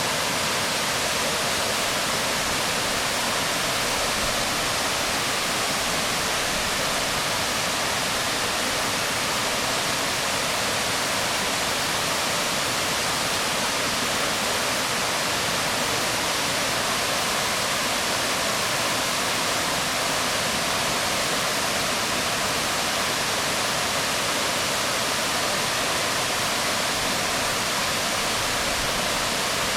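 Waterfall water falling onto rocks: a steady, unbroken rushing.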